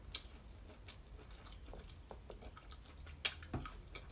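A person chewing a bite of breaded chicken nugget, with soft wet mouth clicks and a couple of sharper clicks a little over three seconds in.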